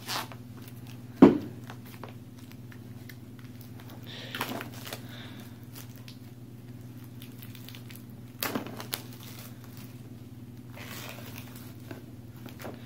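Objects and packaging being handled: a few separate knocks and crinkly rustles, the loudest a sharp knock about a second in, over a steady low electrical hum.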